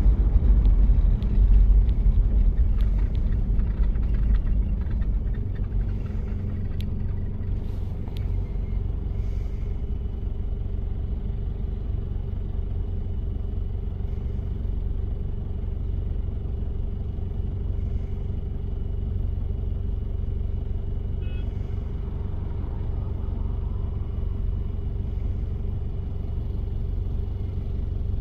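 Diesel engine of a 1993 Toyota Prado running while driving: a low, steady rumble that is louder for the first few seconds and then settles, with a steady hum over it.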